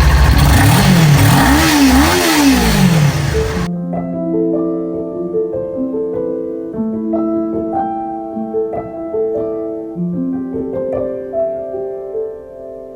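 Kawasaki Ninja 400 parallel-twin engine revved in quick blips, its pitch rising and falling several times. It cuts off suddenly just under four seconds in, and background music of soft mallet and keyboard notes follows.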